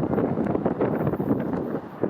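Wind buffeting the camera microphone: a loud, ragged rumble with quick flutters and no steady tone.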